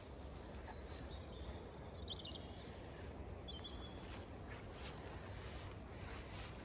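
Faint outdoor ambience: a few short, high chirps and trills from small birds about a second and a half in, over a steady low rumble.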